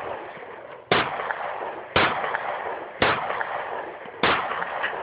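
Four pistol shots fired at a steady pace of about one a second, each sharp crack followed by a long echoing tail.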